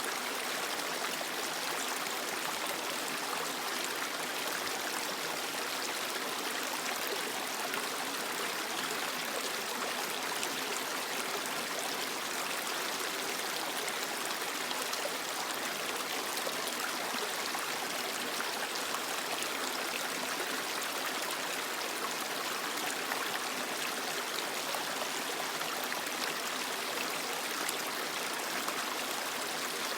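Creek water flowing and splashing over rocks: a steady, even rush with no pauses.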